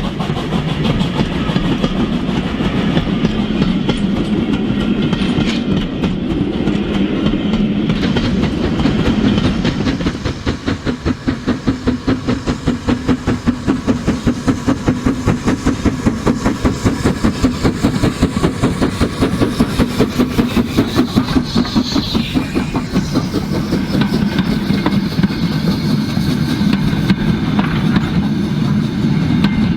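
Steam locomotive running: a steady low rumble, with an even chuffing beat of about four a second through the middle stretch.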